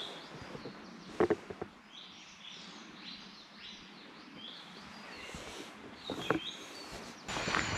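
Wild birds chirping and singing, many short high notes overlapping, with two brief crackles about a second in and about six seconds in. Near the end a louder rustling starts.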